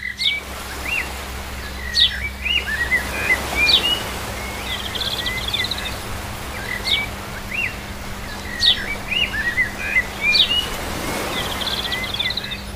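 Birds chirping and calling: sharp sweeping chirps and short trills repeat every second or two over a steady low hum.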